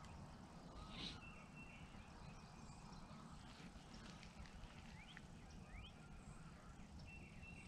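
Near silence: quiet lakeside outdoor ambience with faint, scattered bird chirps, including a few short rising calls.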